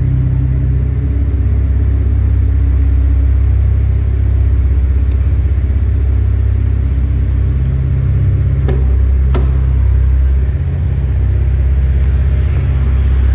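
2015 Chevy Impala's exhaust, its suitcase resonators and muffler deleted and a pair of Flowmaster Super 40 mufflers fitted, running with a steady deep rumble that swells slightly a few times. Two sharp clicks come a little past halfway.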